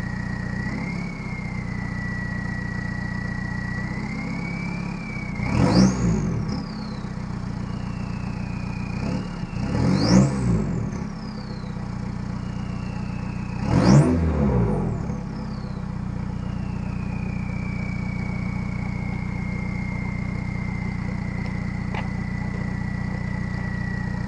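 Volkswagen Jetta's 1.9-litre four-cylinder turbodiesel idling through a 2½-inch straight pipe shortly after a cold start. It is revved three times, about four seconds apart, and settles back to idle. A high whine rises sharply with each rev and falls away slowly after it.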